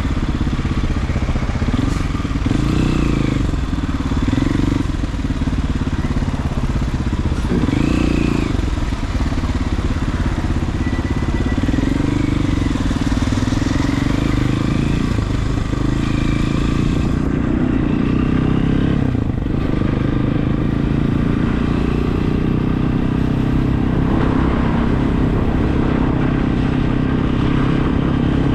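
Regulmoto TE enduro motorcycle engine running while riding, its pitch rising and falling several times with the throttle, with a constant rush of wind and road noise.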